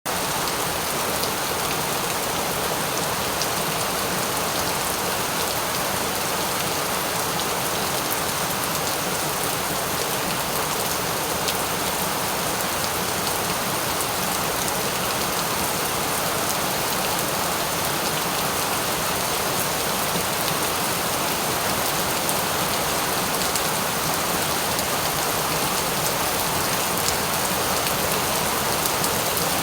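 Steady rain falling: an even, dense hiss with fine scattered drop ticks.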